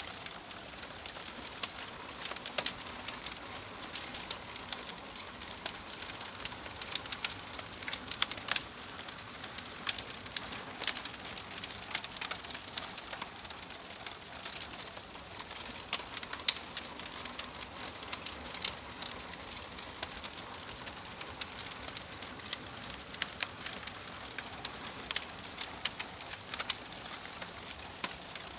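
Wood fire in a fireplace crackling: a steady soft hiss with frequent sharp, irregular pops and snaps.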